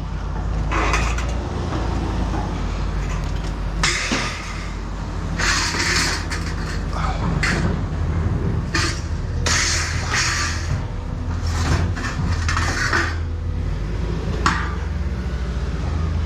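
Scrap being handled, with irregular rattles, clanks and scrapes every second or two over a steady low vehicle-engine rumble.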